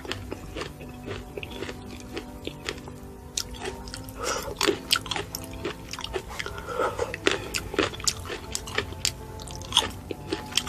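Close-miked chewing and crunching of fresh fruit, with many sharp, crisp bites at an irregular pace, over steady background music.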